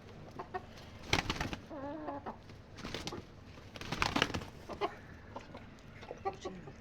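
Chickens clucking, with a short wavering call about two seconds in and several brief rustling bursts in between.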